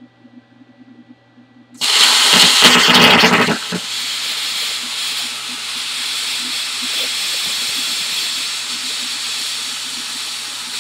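Plasma cutter with a drag tip, set to 35 amps, cutting aluminum freehand: it starts suddenly about two seconds in with a loud, harsh crackling hiss for a second and a half, then carries on as a steady loud hiss until it cuts off at the end.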